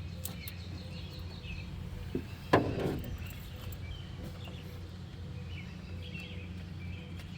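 Outdoor background: a steady low hum with faint bird chirps. One sharp knock about two and a half seconds in, with a smaller click just before it.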